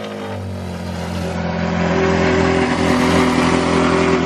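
Ferrari F430's straight-piped V8, just caught after starting, idling loudly and steadily; its pitch eases down in the first moment, then holds level.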